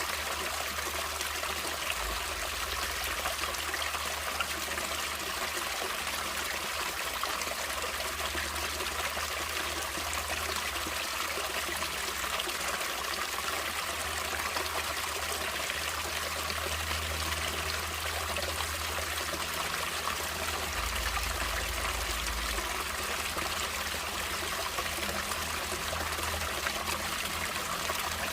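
Stream water flowing and trickling steadily, an even rushing hiss with a faint low rumble underneath.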